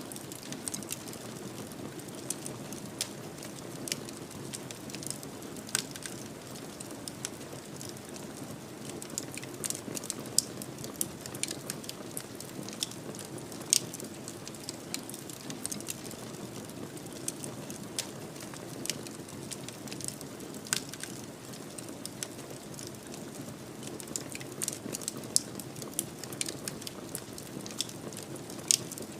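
Fireplace fire crackling: irregular sharp pops and snaps over a steady low rush, with the loudest pops about a third of the way in and near the end.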